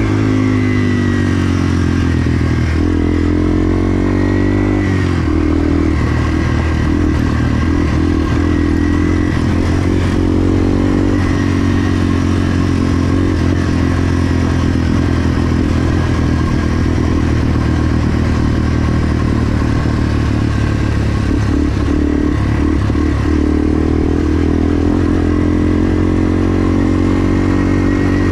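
Yamaha TW200's single-cylinder four-stroke engine running hard while ridden, its pitch climbing with the throttle and dropping at gear changes, about five and eleven seconds in.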